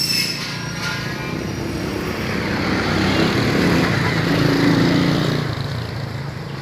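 A motor vehicle passing by: engine and road noise that builds to a peak about four to five seconds in, then fades.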